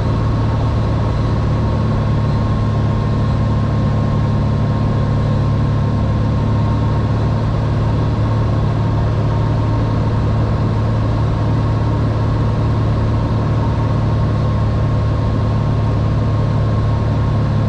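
Cessna 182R's six-cylinder piston engine and propeller droning steadily at constant power, with a strong low hum.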